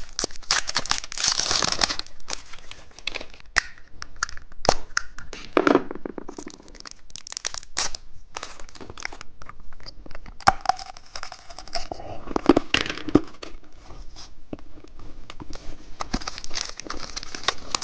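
Plastic candy packaging crinkling and being torn open by hand, with many sharp crackles and snaps of the plastic.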